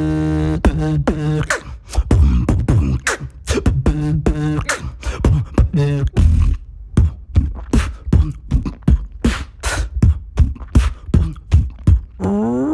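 Vocal beatboxing by one performer: a fast, uneven rhythm of mouth-made kick and snare strokes with short falling pitched sweeps, after a low hum that stops just after the start. Near the end it breaks into a rising, howl-like vocal glide, an imitation of an animal howl.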